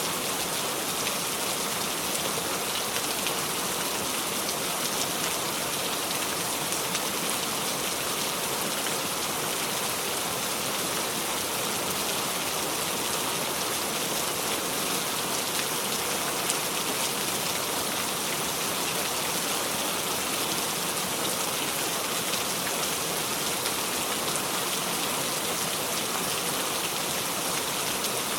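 Steady heavy rain falling, an even constant hiss with fine scattered drop patter and no thunder.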